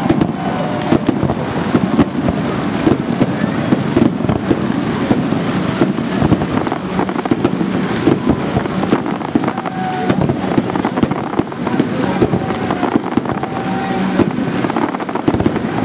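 Festive fireworks salute going off: a dense, continuous run of sharp bangs and crackles from bursting shells.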